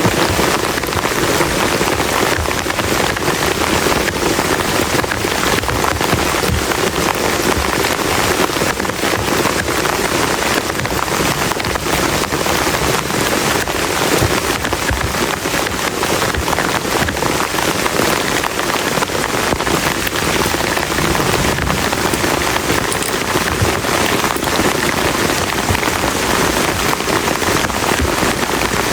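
Heavy rain falling steadily, countless drops hitting a plastic tarp shelter in a dense, even rush with no break.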